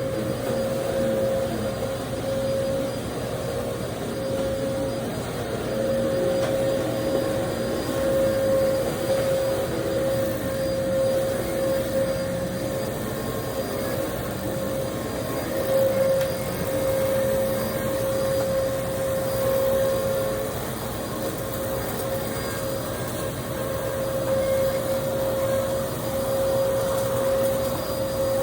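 Vacuum cleaner running steadily: a constant motor whine over a rushing hiss of air, swelling and easing slightly in loudness.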